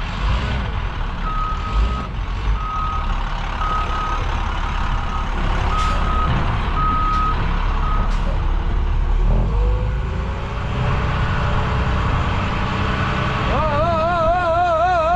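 A heavy vehicle's engine running while its reversing alarm gives about seven short, even beeps, roughly one a second, over the first half. The engine pitch rises briefly around the middle, and a long, loud wavering tone comes in near the end.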